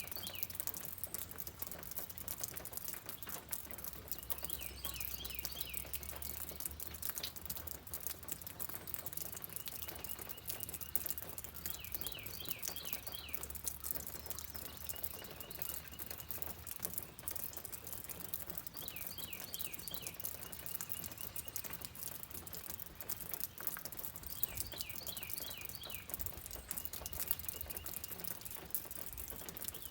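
Rain pattering steadily, with a bird giving short groups of quick high chirps every several seconds and a thin high trill in between.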